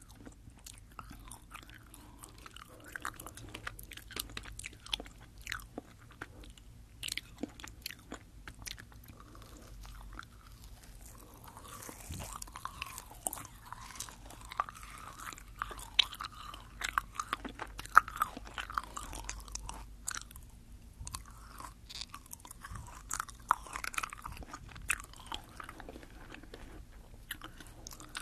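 Close-up chewing of Fini sugar-coated gummy jelly candies into a binaural microphone, with many small sharp mouth clicks. The chewing gets busier and louder from about halfway.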